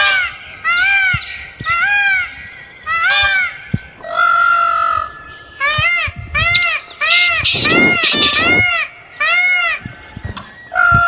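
A bird calling over and over in short, loud, nasal calls that rise and fall in pitch, about two a second. About four seconds in comes one longer, level call, and around the middle a harsh, noisy squawk.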